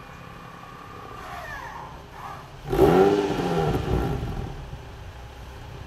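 Nissan 350Z's 3.5-litre V6 through an aftermarket rear exhaust silencer, idling, then revved sharply about three seconds in, its pitch climbing and falling back over a couple of seconds before settling to idle again.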